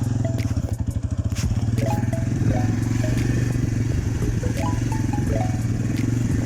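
Italika TC250 motorcycle engine running steadily under way, with short high pitched blips sounding over it now and then.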